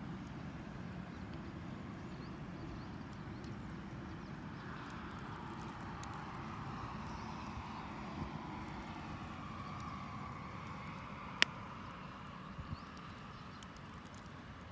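Wood campfire burning with scattered small crackles and one sharp, loud pop about eleven seconds in, over a steady low rumble. A sound that swells and bends in pitch through the middle, like a distant passing vehicle.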